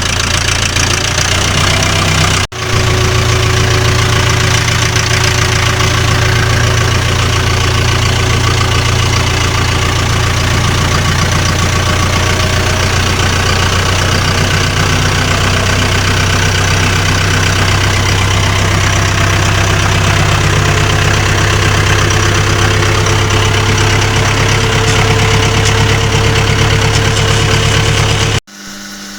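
Farm tractor engine running steadily and loudly, with a brief drop-out about two and a half seconds in; it cuts off near the end.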